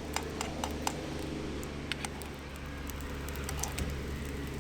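Wood campfire crackling: irregular sharp pops and ticks over a steady low background.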